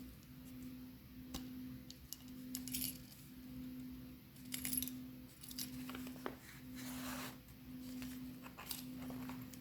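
A small ring-bound handmade journal being handled and its pages turned, with light metallic clinks and jingles from its metal rings and dangling metal embellishments, and paper rustling. A soft low tone pulses steadily underneath, a little faster than once a second.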